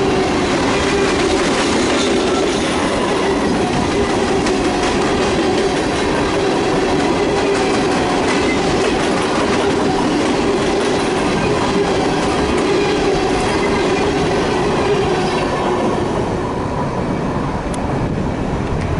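Railroad cars rolling past on the track: a steady rumble and clatter of wheels over the rails, with a steady thin wheel squeal running through it, easing slightly near the end.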